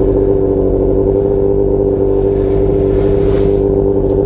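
Motorcycle engine running at steady, constant revs while the bike moves slowly forward.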